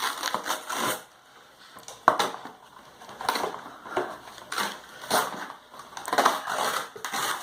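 Packaging of a craft kit being torn and crinkled open by hand, in irregular rustling, crackling bursts with short pauses between them.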